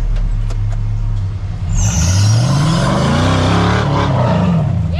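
Off-road rig's engine running low and steady, then revving up and down several times from about two seconds in, with a rushing noise over it, as the rig works a trail obstacle.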